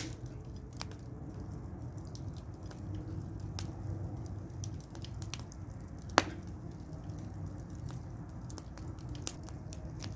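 Wood fire crackling, with scattered sharp pops over a steady low rush; one loud pop about six seconds in.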